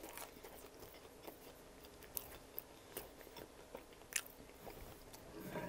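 Quiet close-miked chewing of a chicken parm sandwich, with a few faint, scattered crackles and clicks.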